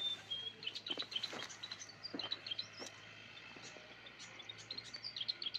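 Small birds chirping, with short high chirps and whistled notes scattered throughout, and a few faint knocks or rustles in the first half.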